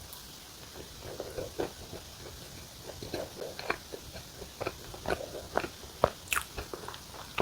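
Close-up eating sounds of a person chewing soft bread: irregular wet mouth clicks and smacks, coming more densely in the second half.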